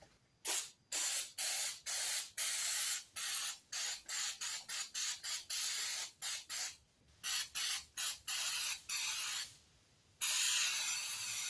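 Sprayer hissing in quick short bursts, about two to three a second, as loose metal lathe parts are sprayed during degreasing. Near the end it gives one longer, unbroken hiss.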